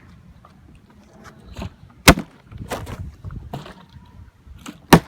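A plastic water bottle being flipped: two sharp thuds about three seconds apart as it hits a hard surface, with faint handling rustle between. The second throw lands.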